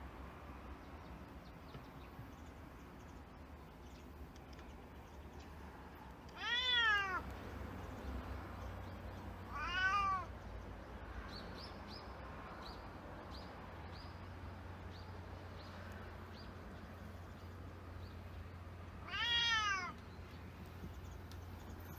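A 23-year-old cat meowing three times: short meows that rise and fall in pitch, about seven seconds in, ten seconds in and near the end.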